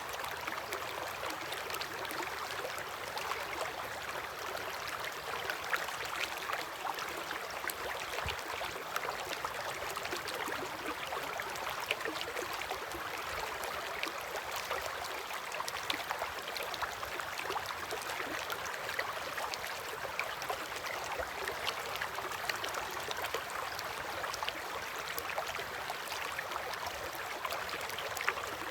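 River current flowing steadily: a continuous watery rush, full of small splashes and gurgles.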